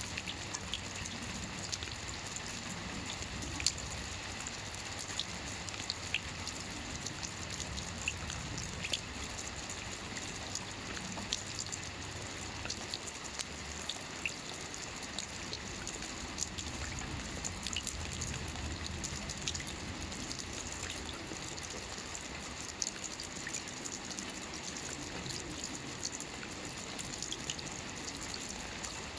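Soft rain falling on a roof: a steady hiss of rain with many scattered drops ticking against the surface.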